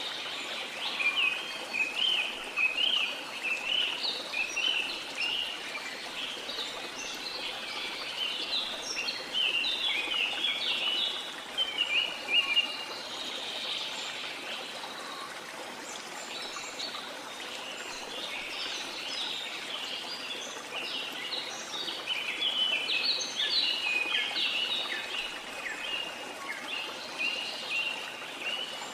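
Many birds chirping in quick, overlapping phrases over the steady rush of a waterfall. The chirping thins for a few seconds in the middle, leaving mostly the water.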